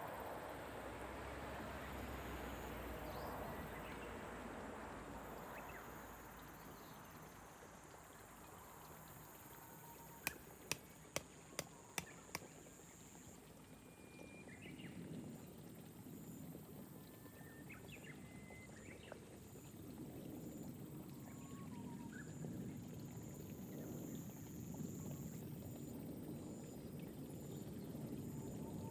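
Gentle rain falling on rice paddy terraces, with scattered short bird chirps. About ten seconds in come five sharp ticks in quick succession, about two a second, and a high thin insect-like trill runs faintly through the second half.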